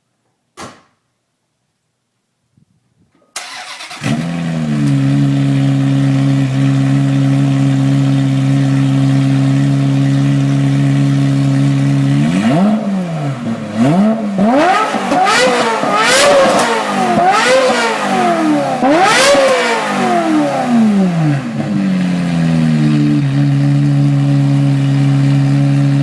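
Ferrari F355's 3.5-litre V8 breathing through a Capristo Stage 3 exhaust with custom track pipes. After a short click, the starter cranks briefly and the engine catches and settles into a steady idle. It is then revved in a string of quick blips, each rising and falling in pitch, before dropping back to idle.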